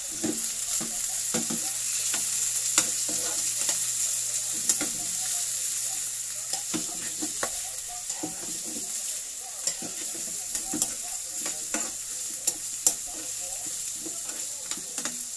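Chicken pieces frying with onion and garlic in hot oil in a frying pan, a steady sizzle, while a metal spoon stirs them, scraping and clicking against the pan over and over. This is the chicken being seared after the garlic and onion have browned.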